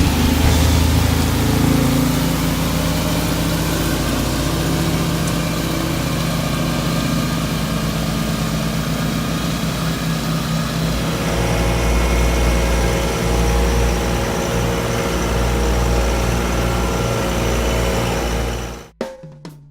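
Heavy equipment engine running steadily with a low rumble, cutting off abruptly just before the end.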